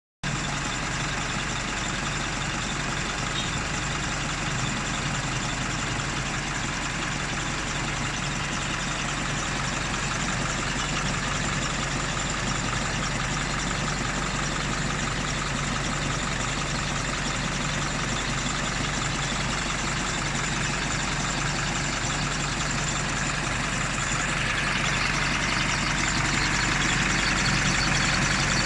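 Isuzu 4JK1 four-cylinder turbodiesel engine idling steadily. Near the end it gets slightly louder and brighter.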